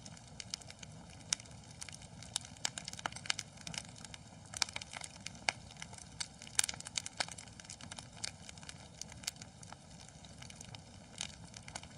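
Wood fire in a fireplace crackling, with irregular sharp pops and snaps over a low steady hiss.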